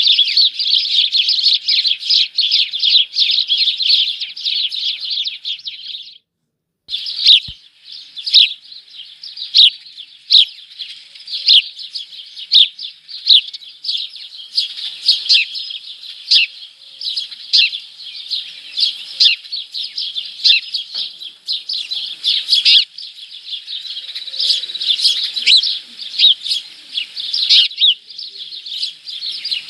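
Many small birds chirping and twittering in a dense, unbroken chorus of short overlapping calls. The sound drops out completely for about half a second a little after six seconds in, then resumes.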